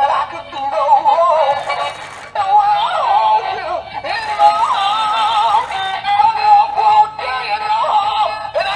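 Battery-operated animated plush dog toy singing a Christmas song in a synthetic voice through its small, tinny built-in speaker.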